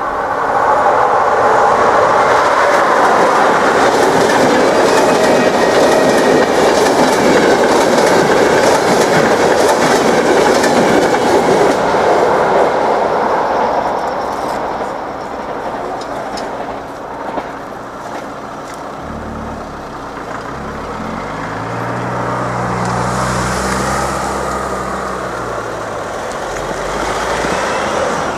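A EuroCity passenger train rolls past close by over the level crossing, loud for about twelve seconds and then fading away. Later a car engine runs and revs as cars drive over the crossing.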